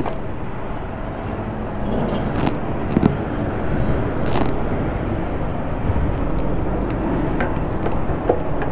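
Kawasaki Ninja 500 parallel-twin motorcycle engine running, with steady wind noise over the microphone and a few short sharp clicks.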